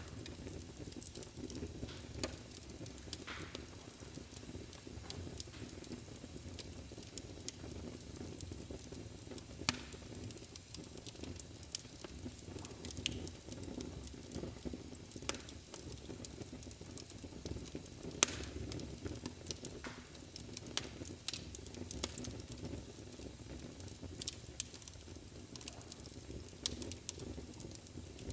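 Wood fire burning in a fireplace: a steady low rumble of flames with frequent irregular crackles and pops, a few louder snaps scattered through.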